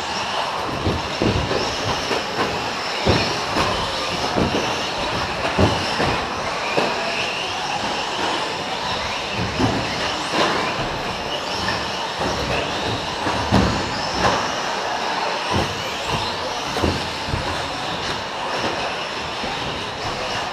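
Several electric 4WD short-course RC trucks racing, with a high whine from their brushless motors and drivetrains rising and falling with the throttle. Irregular thumps come from jumps, landings and knocks.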